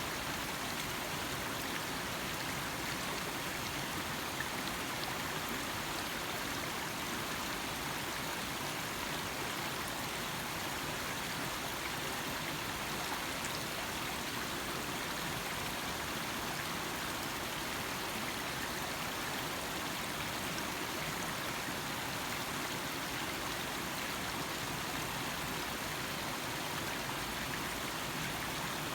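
Small stream flowing and babbling steadily over stones, an even rushing trickle of water.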